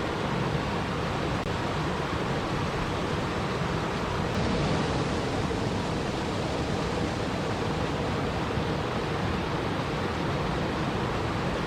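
Steady, even rushing of water with no pauses or separate sounds.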